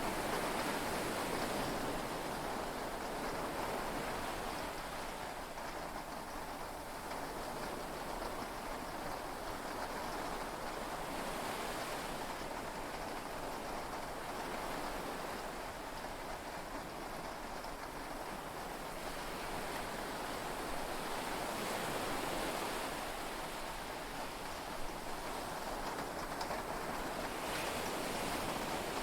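Heavy rain and sea waves heard from inside a yacht cabin: a steady wash of noise that swells and eases slowly.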